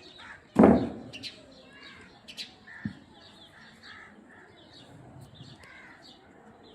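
Small birds chirping in the background, with one loud sharp knock about half a second in and a few fainter clicks after it.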